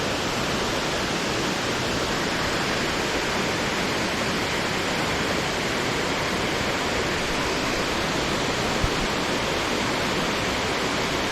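Waterfall: a steady, unbroken rush of falling water, spread evenly from deep to high.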